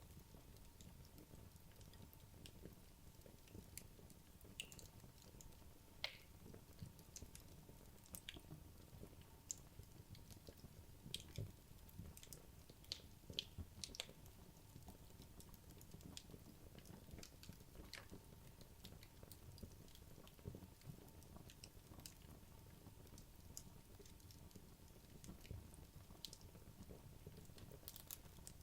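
Wood logs burning in a fireplace, heard faintly: sparse, irregular crackles and small pops over a low rumble.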